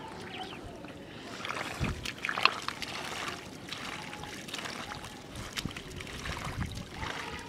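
Muddy water sloshing and splashing as fish are groped for by hand in a shallow pool, with a sharper splash about two and a half seconds in.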